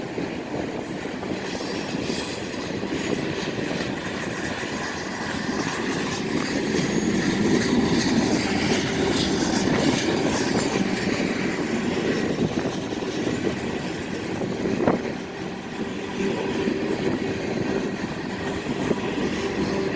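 CSX freight train rolling past, the steady rumble of its cars on the rails, with one sharp knock about fifteen seconds in.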